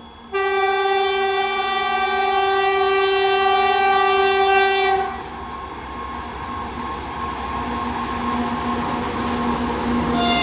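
A train horn sounds one long blast of about five seconds, then cuts off, leaving the noise of the train growing louder as it approaches.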